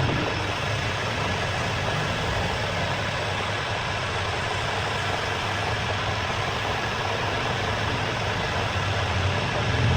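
An engine idling steadily under a heavy, even hiss of noise.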